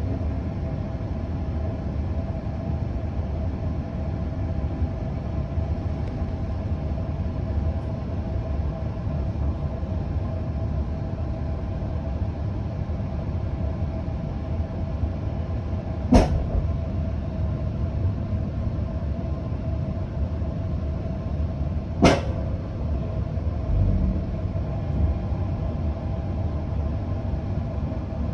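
Queensland Rail electric suburban train running, heard from inside the carriage: a steady rumble with a faint steady hum, broken by two sharp knocks about six seconds apart in the second half.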